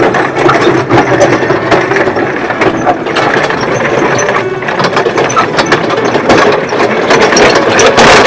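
Engine of the vehicle towing a ride-on can train running steadily, with the metal cars rattling and clattering along.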